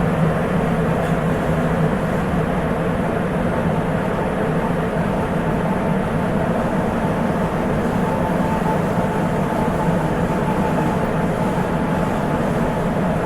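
Running noise of a Sapporo Municipal Subway 8000 series train with Hitachi IGBT inverter drive, heard inside the car between stations: a steady, even rumble with a faint steady tone above it.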